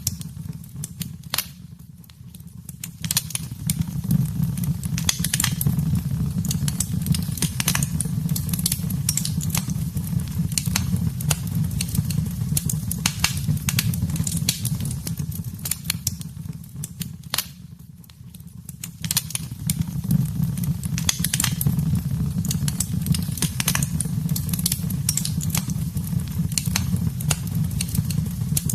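Wood fire burning in a fireplace: a steady low rumble with frequent sharp crackles and pops. The sound dips briefly twice, about two seconds in and again some sixteen seconds later.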